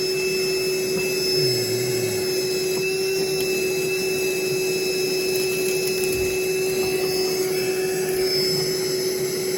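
Vacuum cleaner running steadily with a constant whine, sucking up rat droppings.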